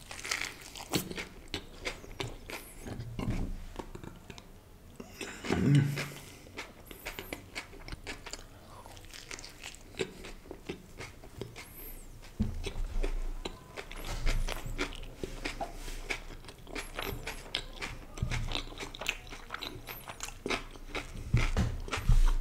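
Close-miked eating sounds: a man biting into and chewing a stuffed tortilla wrap, with irregular wet crunching and smacking and a few louder bites.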